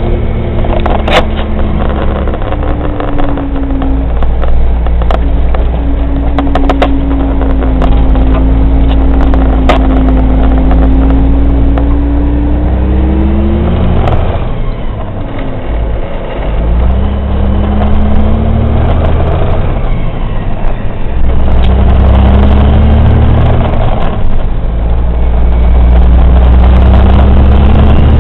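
Kenworth water truck's diesel engine pulling through the gears: the engine note climbs steadily in each gear, dips and drops off at a shift about halfway through, then rises again in several shorter climbs as it goes up through further gears.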